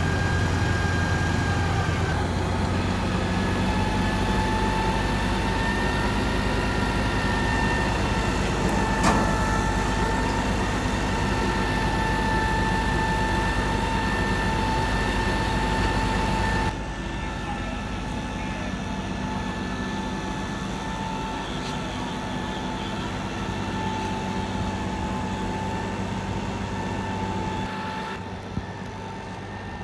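Fire engines running at a fire scene: a steady engine hum with a constant high whine over it. The level drops suddenly about seventeen seconds in and again near the end.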